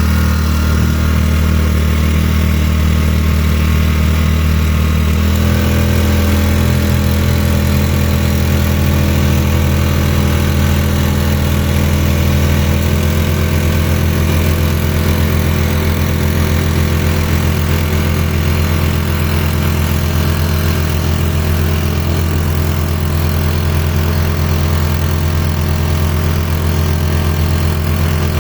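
Tomking 4 hp outboard motor running steadily. Its engine note shifts about five seconds in and again around thirteen seconds in, as the throttle setting changes.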